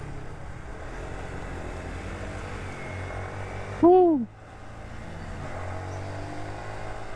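Single-cylinder four-stroke motorcycle engine running steadily at low riding speed, with wind and road noise. About four seconds in, a short, loud pitched sound rises and falls in pitch over about half a second.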